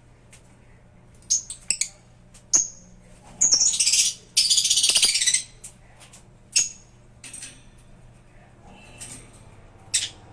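African lovebirds giving sharp, shrill chirps, with two longer bursts of rapid, harsh chattering about a second each, a few seconds in.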